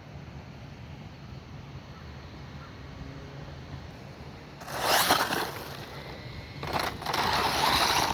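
4S Rlaarlo XDKJ-005 RC truggy driving on wet dirt. Two loud rushes of motor and tyre noise come, one about halfway through and a longer one near the end, over a low steady background.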